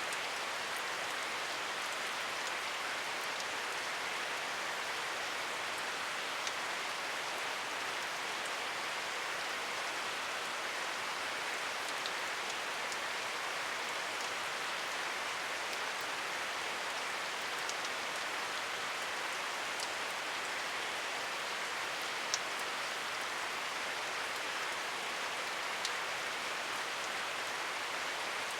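Steady rain falling, an even hiss with an occasional single drop tick standing out.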